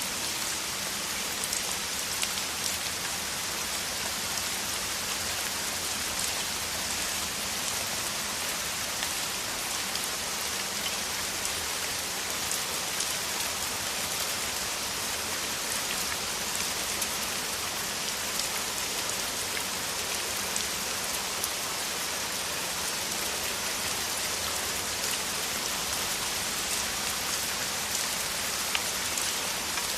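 Heavy rain falling steadily: a dense even hiss speckled with countless small drop ticks.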